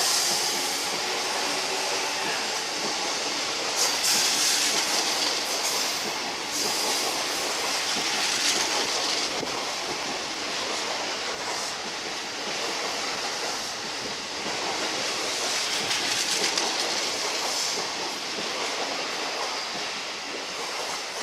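JR electric commuter train running out of the station past the platform: a steady rush of wheel and running noise on the rails, with occasional clatter over rail joints.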